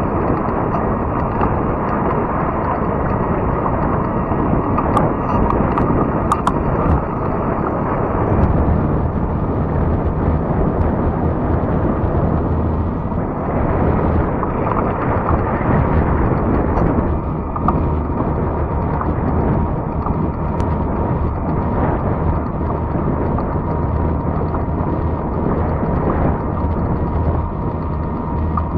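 Steady rush of wind on the microphone and rolling noise from a fat-tire electric bike riding along a trail, with a few sharp ticks about five to seven seconds in.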